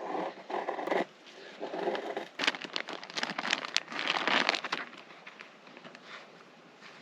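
Rustling, crinkling and scraping, as of gear or material being handled, loudest between about two and a half and five seconds in. A few short muffled thuds come before it.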